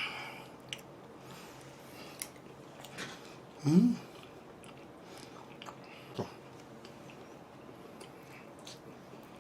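A person chewing food close to the microphone, with soft wet mouth clicks. About four seconds in there is a short hummed 'mm' sound.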